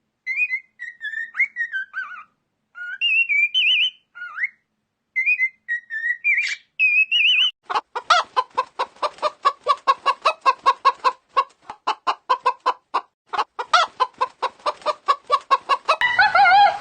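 High, gliding bird chirps and whistles with short gaps for about seven seconds, then a chicken clucking in a long fast run of short calls, about five a second.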